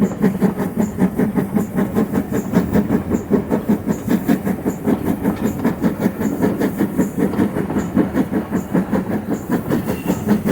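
Great Western Railway tank engine working hard up a steep gradient, its steam exhaust beating steadily at about four or five beats a second, with the clickety-clack of the train on the rails.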